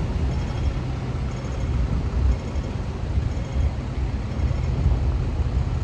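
Road traffic on a city street: a steady, low rumble of passing vehicles.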